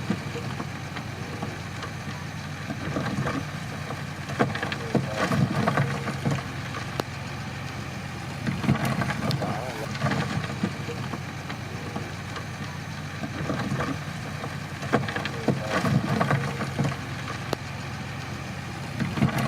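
Crawler bulldozer's diesel engine running steadily, with a low drone and scattered sharp clanks.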